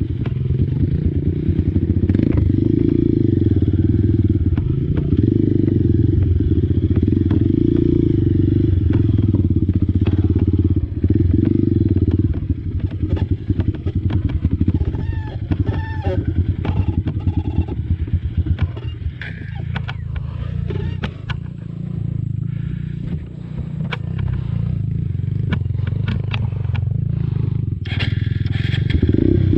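Honda dirt bike's single-cylinder four-stroke engine running while riding off-road, with scattered knocks and clatter. It eases off about a third of the way in and picks up again near the end.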